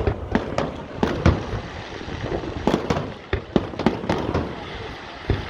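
Fireworks exploding overhead: a rapid, irregular run of sharp bangs and crackles, several going off close together, over a steady rumble.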